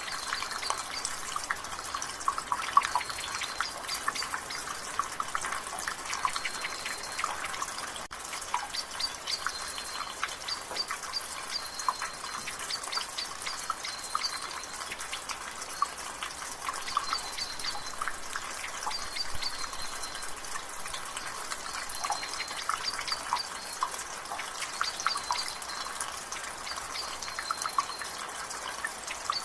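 Water dripping from a gutter in light rain: irregular drips and splashes over a steady hiss of drizzle. Short, high bird calls recur every few seconds in the background.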